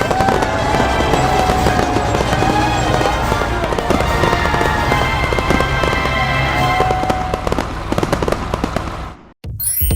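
A dense run of sharp cracks and bangs over background music, stopping abruptly about nine seconds in.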